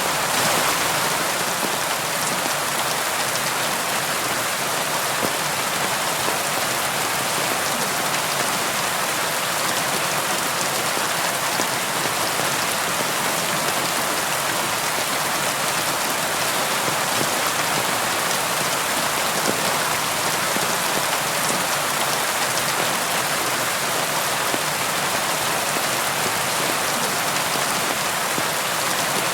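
Steady rain falling: a dense, even hiss of many drops striking a surface, mostly high in pitch with little low rumble and no thunder.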